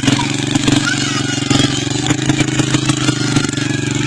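Motorcycle engine running steadily at an even speed, with a rapid, regular firing beat.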